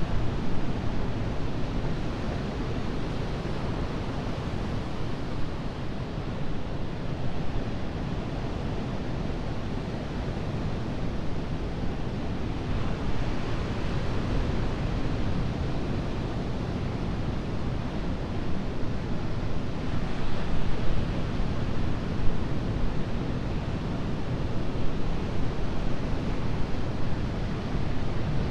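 Ocean surf breaking and washing on a beach: a continuous rush of waves that swells louder about two-thirds of the way in.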